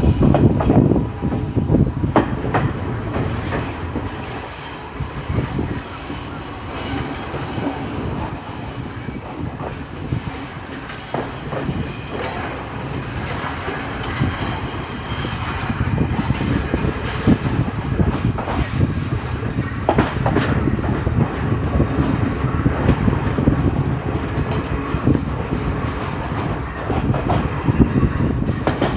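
Local passenger train running on the rails, heard from aboard: a steady rumble of the carriage, short high wheel squeals now and then, and a few sharp rail clicks.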